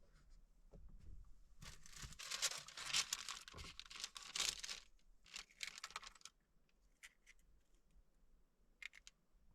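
Crinkling and rustling of handled packaging in two spells, a longer one of about three seconds and a shorter one of about a second, followed by a few faint clicks.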